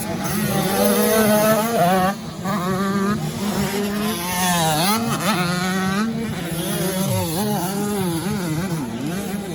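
Several 85 cc two-stroke motocross bikes running hard together, their engine pitch repeatedly rising and falling as they accelerate, shift and back off, with a sharp dip about five seconds in.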